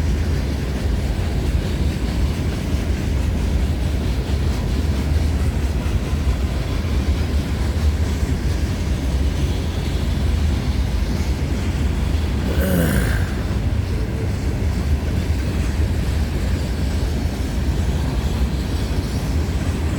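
Cars of a long CN freight train rolling past at speed: a steady rumble of wheels on rail, heaviest in the low end. A brief squeal stands out a little past halfway through.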